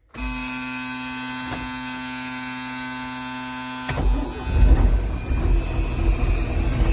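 Old Trojan payloader cold-starting: the electric starter whines steadily for about four seconds, then the engine catches and runs, louder and rougher at the low end.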